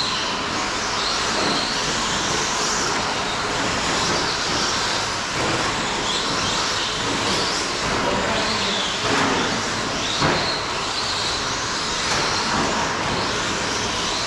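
A field of 1/10 short course RC trucks with 17.5-turn brushless electric motors racing: a steady din of high, wavering motor whine and tyre noise, with two sharp knocks about two-thirds of the way through.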